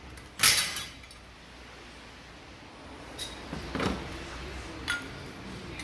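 Metal parts and tools clanking and knocking as they are handled, with one loud clank about half a second in and a few lighter knocks later.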